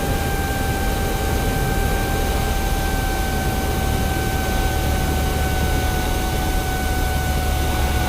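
Cessna 172's piston engine and propeller droning steadily in the cabin, with a deep hum underneath and a high whine held at one pitch.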